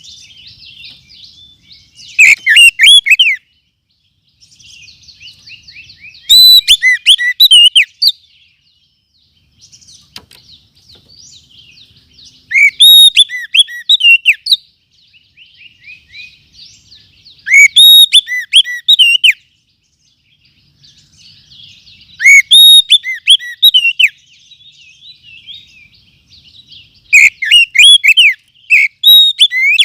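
Oriental magpie-robin (kacer) song played as a lure-call recording: loud whistled phrases of about a second and a half come roughly every five seconds, peaking at full scale, with softer rapid twittering between them.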